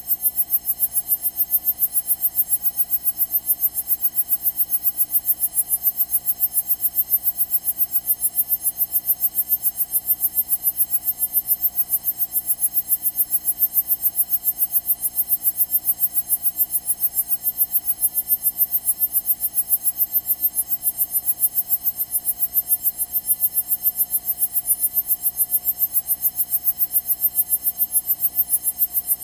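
Steady electrical hum and buzz with a rapid, regular high-pitched pulsing of about four beats a second. This is electrical interference on the Cessna 172's cockpit audio feed, which drowns out the engine.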